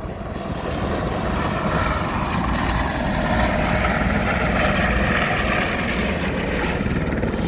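Helicopter running on the ground ahead of take-off: a steady loud rush of turbine engine and spinning rotor that grows a little louder over the first second or two.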